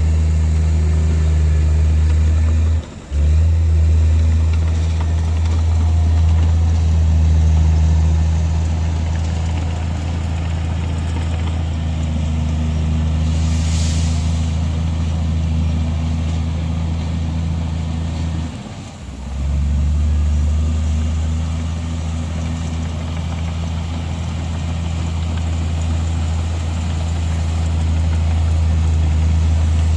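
Heavy diesel engine of a bulldozer or dump truck running steadily with a deep, even hum. It cuts out briefly twice, at about 3 s and 19 s. A short hiss comes about halfway through.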